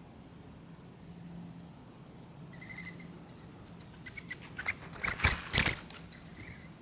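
Small birds at a backyard seed feeder: a few faint high chirps, then a quick run of sharp clicks and taps ending in two louder knocks, as birds land and work at the feeder.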